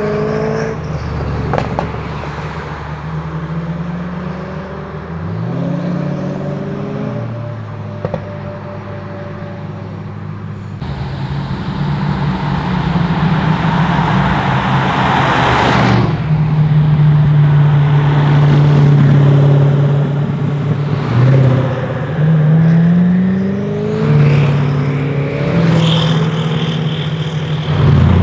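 Koenigsegg hypercars' engines idling and revving as a convoy moves off and passes, their revs rising and falling several times. A loud rush of noise comes in the middle.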